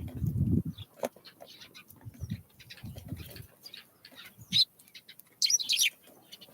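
Small wild birds at a winter feeder: short high chirps and calls, loudest in a quick cluster a little over five seconds in, with low fluttering thuds near the start and again around two and three seconds in.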